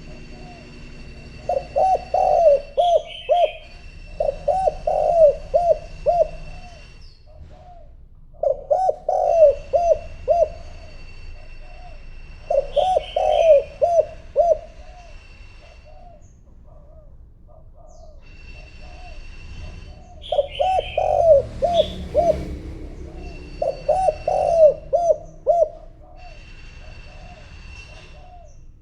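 Spotted dove cooing in about six bursts of quick repeated notes with pauses between, the cooing of a decoy bird used to call in wild doves.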